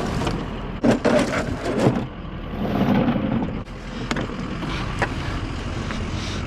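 A few sharp clanks and knocks of scrap being handled about a second in, with lighter knocks later, over a steady low hum.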